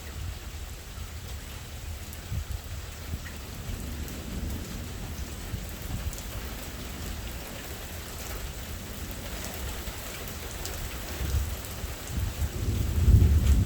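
Steady rain falling during a thunderstorm, with a low rumble of thunder that builds and grows louder near the end.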